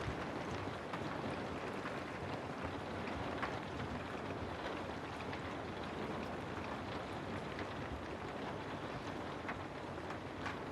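Steady rain ambience: an even hiss of rainfall with scattered sharp ticks of single drops.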